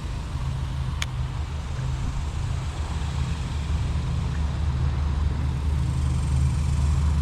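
A low, steady rumble that grows louder toward the end, with one sharp click about a second in.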